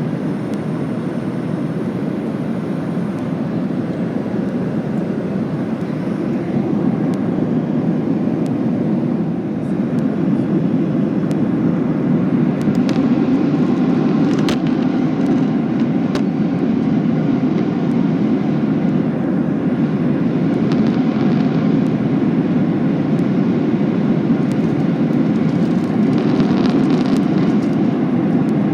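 Steady cabin roar of a Boeing 737-800 in cruise, heard from an economy seat: engine and airflow noise, with a few faint clicks about halfway through.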